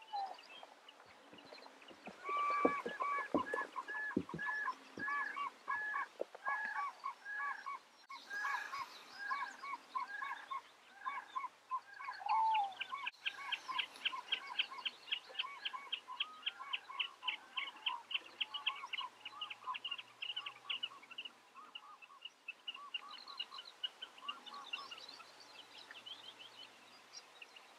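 Wild marsh birds calling: a long run of repeated honking calls at about two a second, then a faster, higher run of repeated calls that thins out toward the end.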